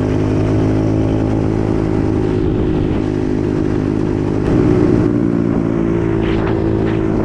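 125cc single-cylinder dirt bike engine running under way at steady speed, briefly getting louder with a rise in revs partway through.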